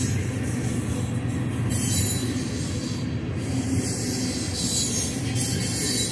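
Loaded covered hopper cars of a grain train rolling past: a steady low rumble of steel wheels on the rails, with a high hiss that comes and goes.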